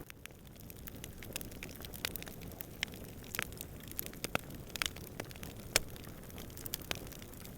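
Campfire burning with irregular sharp crackles and pops over a steady low rush of flames and distant wind, one pop louder than the rest near the end.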